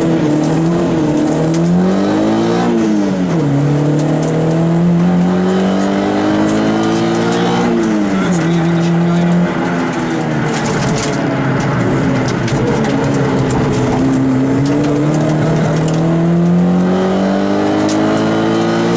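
Peugeot 106 rally car's engine heard from inside the cabin, revving hard up through the gears, the pitch climbing and then dropping at each upshift. About midway the engine eases off for a few seconds before pulling up through the gears again.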